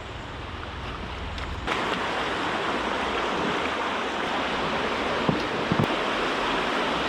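Mountain stream water rushing steadily, turning abruptly louder about two seconds in, with wind rumbling on the microphone.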